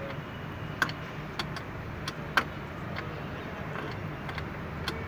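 Scattered sharp clicks and taps from tools and parts being handled during air-conditioner fitting, about seven in all at uneven intervals, the loudest about two and a half seconds in, over a steady low hum.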